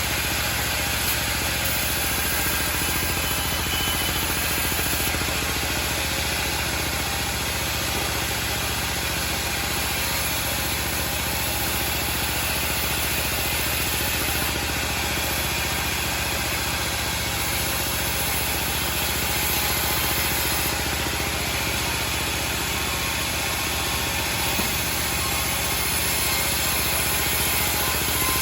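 Home-built band sawmill running, a steady machine noise with no pauses or changes.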